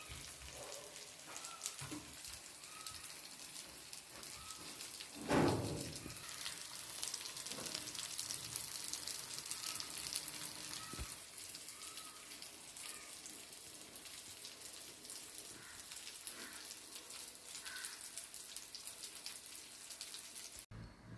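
Masala-coated fish frying in hot oil: a steady crackling sizzle with a louder bump about five seconds in. The sizzle cuts off shortly before the end.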